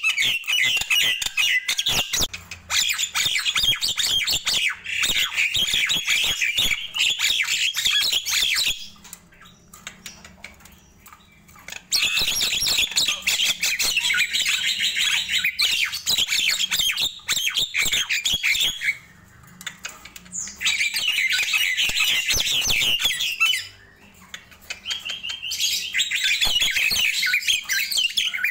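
Nias hill myna calling, a dense run of loud, rapid chattering and squawking notes in long bouts of several seconds each. The bouts are broken by a few short pauses, the longest about a third of the way in.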